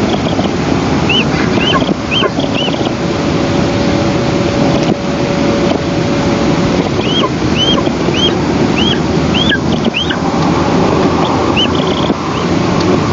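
Wind rushing over the nest camera's microphone, with runs of short, high, arching bird chirps, a few a second: a brief run about a second in and a longer run from about seven seconds.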